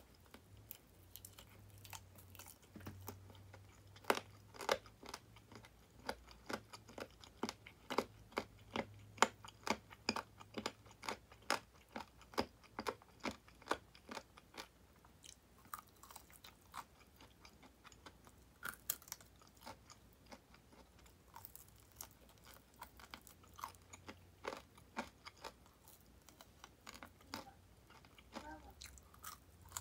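Close chewing and crunching of crispy deep-fried chicken drumettes in 'tulip' style as the meat is bitten off the bone. A quick run of crisp crunches comes in the first half, and the crunches are sparser after that.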